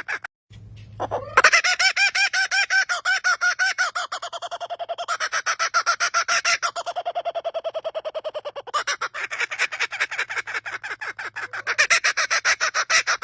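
A bird giving a long laughing call: a rapid, steady run of short pitched notes. It breaks off briefly near the start and resumes about a second in, the notes rising in pitch, then runs on.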